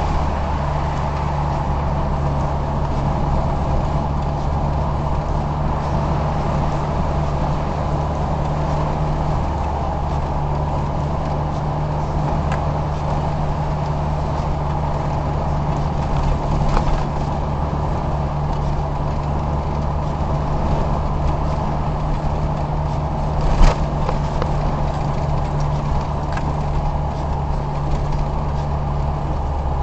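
Steady engine hum and road noise heard from inside a car's cabin while driving, with a few short knocks, the loudest about two thirds of the way through.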